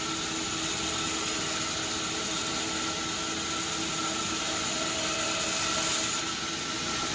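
Sawmill saw running steadily with a high whine and a steady hum. About six seconds in, the high whine drops out and the sound gets a little quieter.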